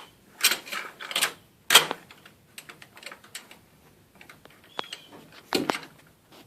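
Irregular clicks and knocks of metal door hardware and hand tools being handled while hinges are fitted, with three sharp knocks in the first two seconds, faint ticking after, and two more knocks near the end.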